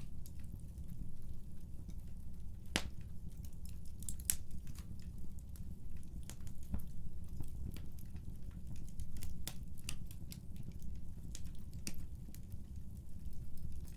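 Wood fire burning in a fireplace: irregular sharp crackles and pops over a steady low rumble, with one louder pop about three seconds in.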